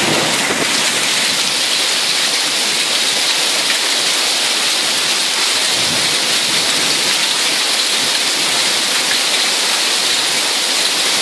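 Steady rain falling in a thunderstorm, an even hiss with no thunder rumble in it.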